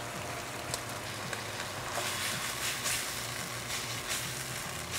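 Tofu cubes sizzling as they fry in soy sauce and oil in a nonstick wok over high heat. The sizzle is steady and grows louder about two seconds in.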